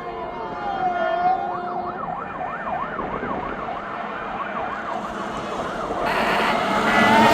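Fire engine siren winding down in pitch, then switching to a fast yelp that rises and falls about three times a second. Louder traffic noise builds near the end.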